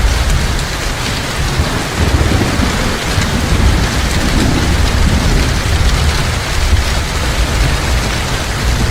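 Heavy rain falling steadily, with a deep low rumble of thunder underneath.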